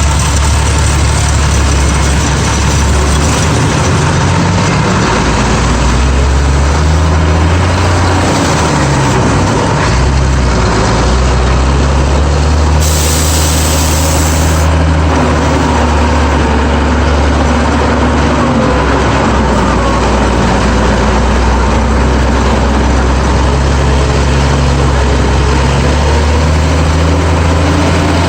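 GMC DUKW amphibious 6x6 truck's straight-six engine running under load, its pitch rising and falling as engine speed changes with gear shifts.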